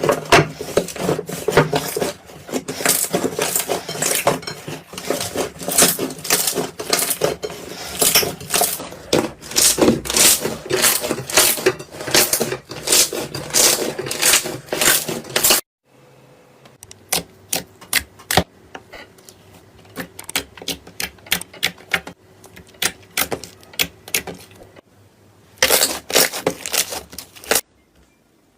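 Slime being squeezed and worked by hand, making dense crackling clicks and pops. It cuts off abruptly about 16 seconds in to a quieter stretch of scattered clicks, then a dense run of crackling returns near the end.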